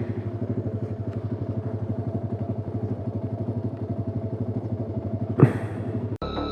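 Royal Enfield Himalayan Scram 411's single-cylinder engine idling with an even, steady thump of firing pulses. A sharp knock sounds about five seconds in, and shortly after, the engine sound cuts off abruptly as music begins.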